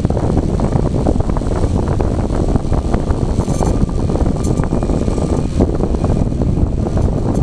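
Strong, gusty wind buffeting the microphone: a loud, dense, low rumble that flutters rapidly and never lets up.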